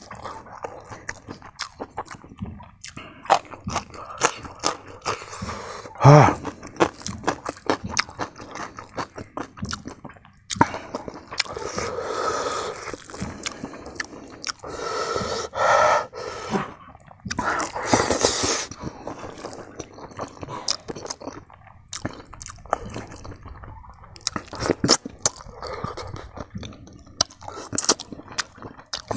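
Close-miked chewing and lip-smacking of a man eating a mouthful of rice and smoked pork by hand, with many short wet mouth clicks and a few brief breathy noises in between.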